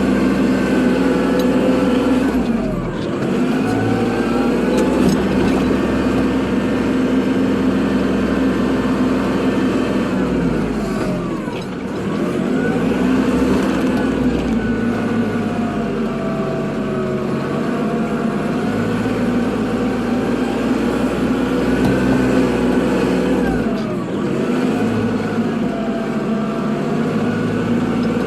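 Kubota tractor's diesel engine running steadily under load, its pitch sagging briefly and climbing back three times: about three seconds in, near the middle, and near the end.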